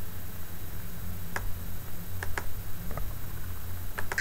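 A steady low hum with a handful of light, scattered clicks, two of them close together a little past the middle and two more near the end.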